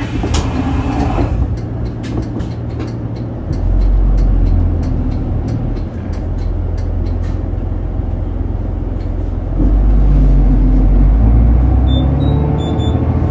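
Route bus's diesel engine running, heard inside the passenger cabin: a steady low drone that swells twice, about four seconds in and again near ten seconds, as the bus pulls ahead. A short hiss of air sounds just after the start.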